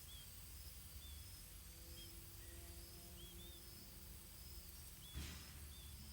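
Faint outdoor ambience: a bird's short, high chirps repeating about once a second over a steady high insect drone. About five seconds in comes a brief rustle.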